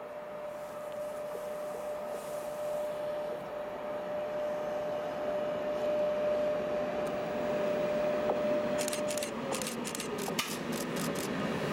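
Electric freight locomotive approaching with a steady whine that drops in pitch as it passes, about nine seconds in. A quick run of sharp wheel clicks on the rails follows as the empty log wagons roll by, over a rising rumble.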